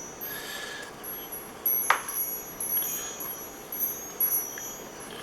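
Wind chimes ringing, several high metallic notes overlapping and fading, with a sharp knock about two seconds in and another at the very end.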